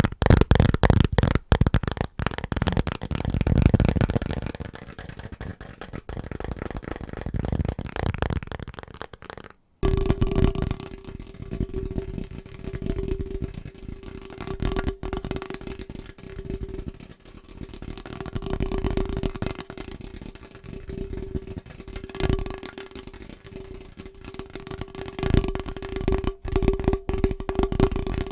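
Fast, aggressive tapping on household objects, a dense patter of rapid strikes. Just under ten seconds in it cuts abruptly to a different item whose taps ring with a steady pitched tone.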